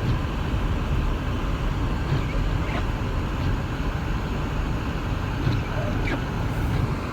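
Steady low rumble of road noise heard from inside a car driving on a snow-covered road: engine and tyres running evenly, with no change in speed.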